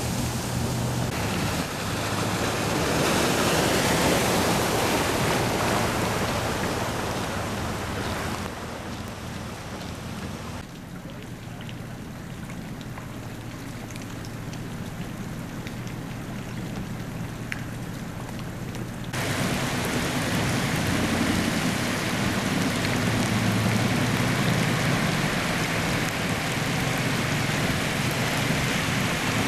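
Heavy rain and running floodwater making a steady rushing noise, with a low engine hum underneath. The noise drops to a quieter stretch partway through, then comes back at full level.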